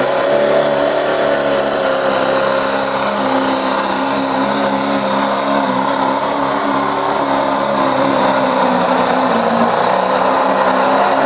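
Diesel pickup engine held at full throttle while it drags a weight-transfer sled down the pulling track: a loud, steady drone whose pitch holds level and sags slightly near the end.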